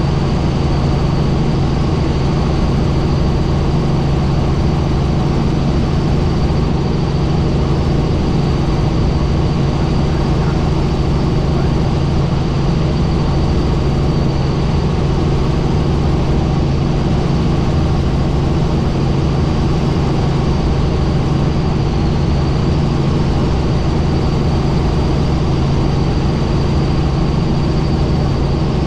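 Helicopter in flight: a steady, loud drone of engine and rotor with a thin high whine over it.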